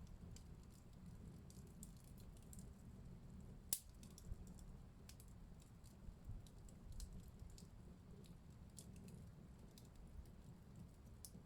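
Wood fire in a fireplace crackling softly, with scattered small pops over a low rumble of burning and one sharp snap a little under four seconds in.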